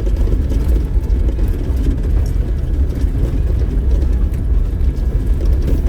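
An off-road vehicle driving slowly along a dirt trail, heard from inside the cab as a steady low engine and road rumble.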